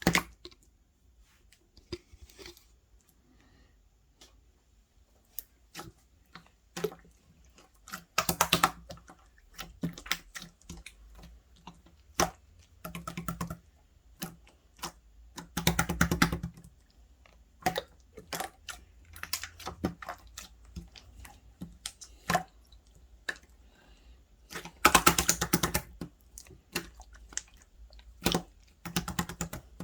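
Irregular small clicks and taps, broken by several louder crackling, rustling bursts about a second long.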